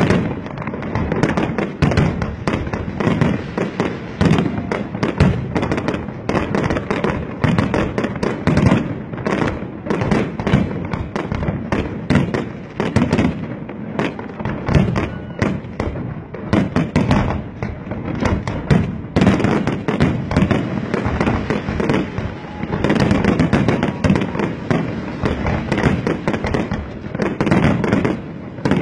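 Aerial fireworks display: a dense, unbroken barrage of rapid overlapping bangs and bursts, with no pause.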